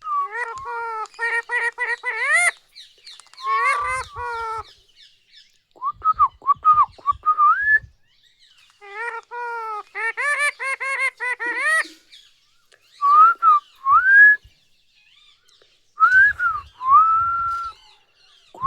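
Pet parrot calling in several bouts: rapid runs of repeated, rising notes alternate with clean whistled notes that swoop up and down, with a few soft knocks in between.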